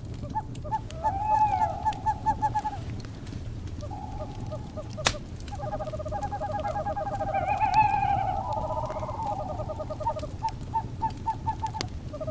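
Owls calling in rapid trills of short repeated notes, some rising and falling in pitch, over the low noise of a crackling fire, with one sharp pop about five seconds in.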